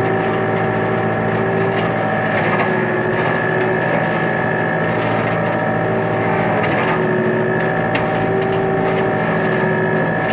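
Tractor engine and tractor-mounted hedge trimmer running steadily while cutting, with a constant whine and scattered faint clicks and cracks.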